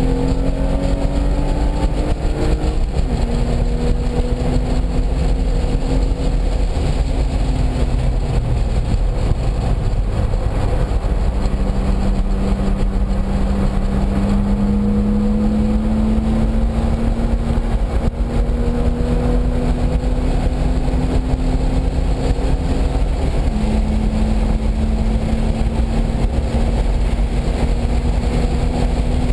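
Car engine at full speed around a race track, its pitch climbing slowly under load and dropping suddenly at each of several gear changes. A heavy, steady rush of noise runs underneath.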